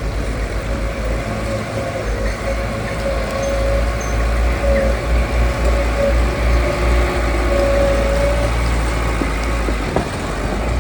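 Engine of heavy road-construction machinery running steadily, a low rumble with a held whine over most of the stretch that fades out near the end.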